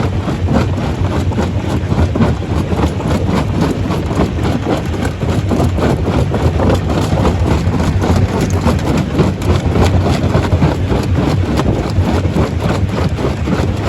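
Stone crusher running steadily, with a constant low machine drone under a dense, irregular clatter of rock knocking and cracking as stones are broken.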